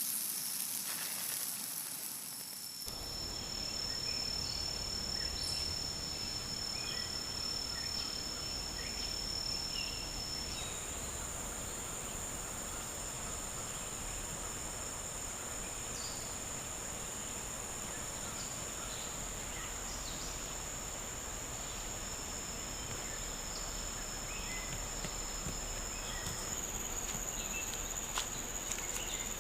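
Rainforest insect chorus: several steady, high-pitched insect drones held over a low hiss of forest ambience, one of them stopping about ten seconds in, with faint scattered chirps.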